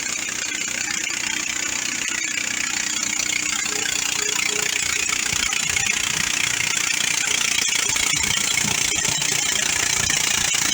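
Bandsaw mill running steadily on its 420cc gasoline engine, a continuous engine drone with a hissing, whirring high end.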